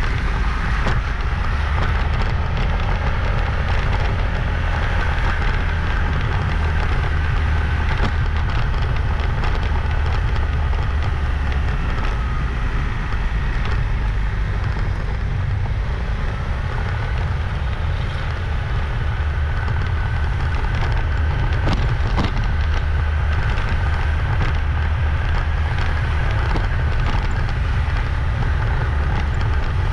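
Riding a moving motorbike: a steady, loud low rumble of wind buffeting the microphone and road noise, with a faint engine whine that drifts up and down and a few light clicks.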